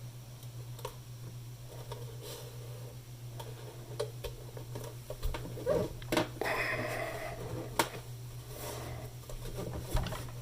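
Hands handling and pressing a wooden side panel into place on a radio case: scattered light clicks, taps and rustles, busiest about two-thirds of the way through, over a steady low hum.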